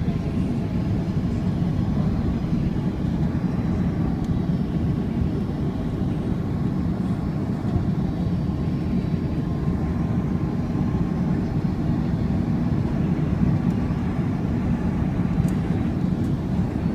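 Airbus A330-200 cabin noise: a steady low rush of engine and airflow, even in level throughout, with faint steady whines above it.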